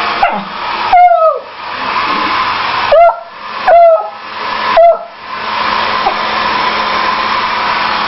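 A hair dryer runs steadily while a beagle barks and bays at it: four loud calls between about one and five seconds in, the first a longer howl that falls in pitch, the others short barks.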